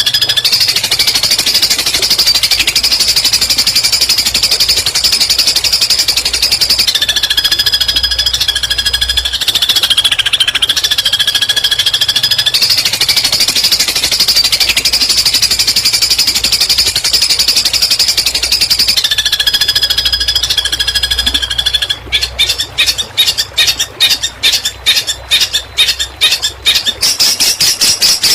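Long-tailed shrike (cendet) singing a fast rattling 'tembakan' song of rapid repeated high notes, loud and unbroken. About 22 seconds in it turns into a choppy string of quick separate bursts.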